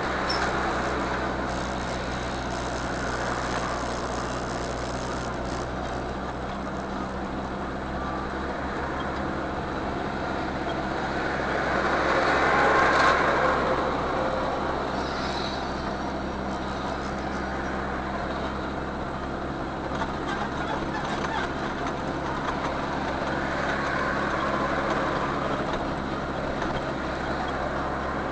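Steady engine and road noise inside a moving car, with a constant low hum. It swells gradually about halfway through and again near the end.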